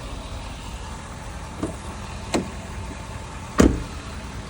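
Three short sharp knocks over a steady low rumble, the third, near the end, a heavy thump and the loudest.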